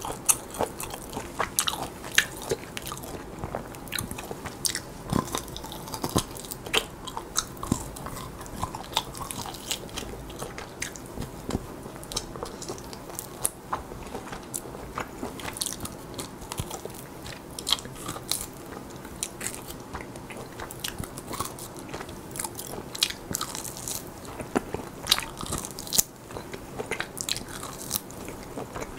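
Close-miked chewing and biting of grilled lamb chop meat pulled off the rib bone, with frequent irregular sharp wet mouth clicks.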